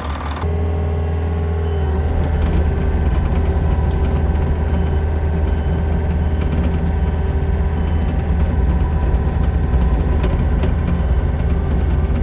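Engine running steadily and loudly, with its note settling slightly lower about two seconds in.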